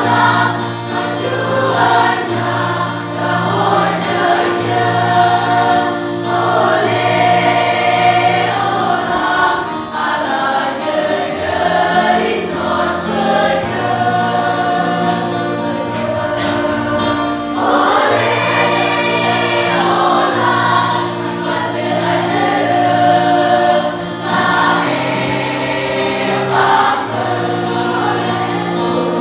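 High-school choir singing a piece in several parts, the voices moving over long held low notes.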